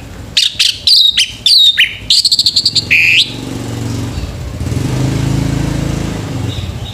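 Male orange-headed thrush singing a loud burst of short, sharp phrases: quick falling whistles, then a fast trill, ending in one brighter note. After the song stops, a low rumble swells and fades.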